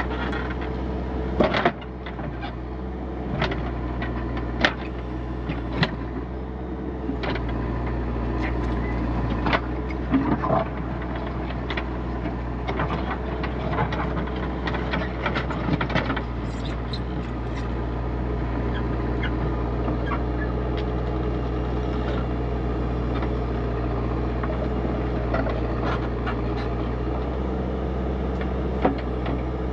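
Backhoe loader's diesel engine running steadily, with a faint whine that wavers in pitch. Many sharp knocks and clanks come through the first half as the machine digs, then it settles into a steadier run.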